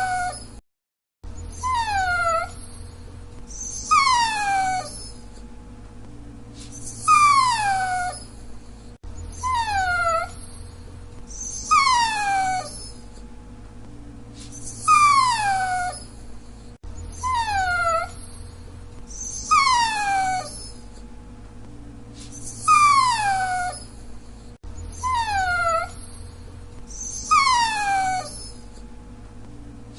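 Dachshund whining: a string of high whines, each gliding downward in pitch and lasting under a second, one every two to three seconds.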